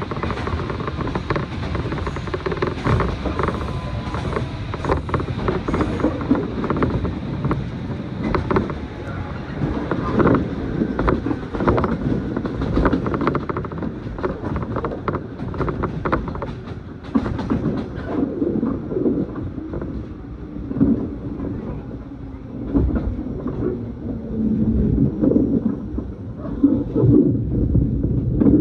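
Electric commuter train running, heard from inside the carriage: a low rumble of wheels on rail with frequent clicks and creaks from the car body. The higher hiss thins out about two-thirds of the way through.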